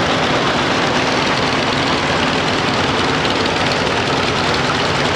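Antique John Deere tractor engine running steadily as it drives past in low gear.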